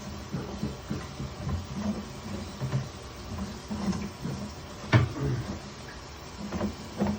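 Sewer inspection camera being fed along a clay sewer pipe: irregular low clunks and knocks from the push cable and camera head, with one sharp knock about five seconds in.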